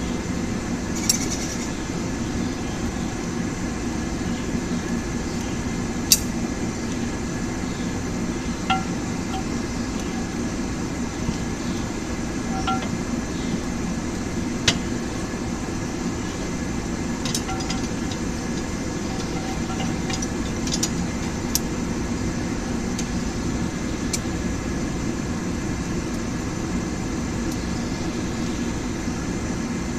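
Forge running with a steady low rush, and a scattered handful of sharp metallic clinks, a few of them ringing briefly, from steel and tongs being handled.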